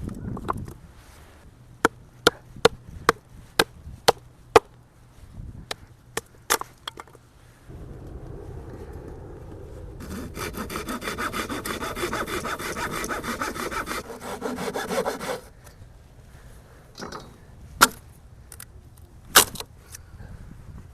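Firewood being cut by hand for a campfire: a run of sharp knocks at about two a second, then several seconds of steady sawing, then two more single knocks near the end.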